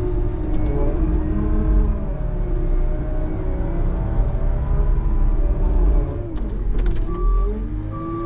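Snow plow truck's engine revving up and down as it pushes snow, with a few sharp clanks about six and a half seconds in. A reversing beeper starts up near the end as it backs off the pile.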